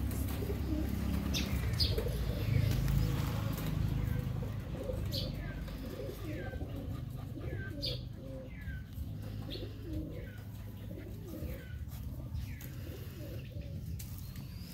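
Birds calling: a run of short chirps that fall in pitch, about one a second, over a soft low cooing. A low rumble sits under the first few seconds.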